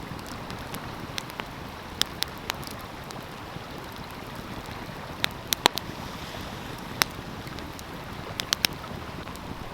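Wood fire crackling, with scattered sharp pops, some in quick clusters, over the steady rush of a stream.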